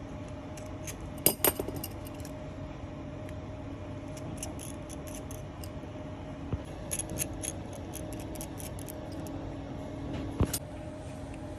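Small metal repair tools clicking and clinking as they are handled and set down: scattered light clicks, with louder knocks about a second in and near the end. A steady electrical hum runs underneath.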